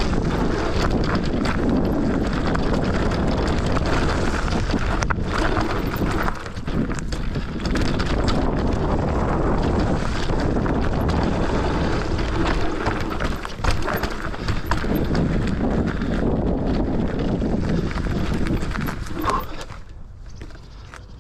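Bike riding down a rough trail: tyres rumbling and crunching over rock and dirt, with constant rattling and knocking from the bike and wind on the microphone. It quietens near the end.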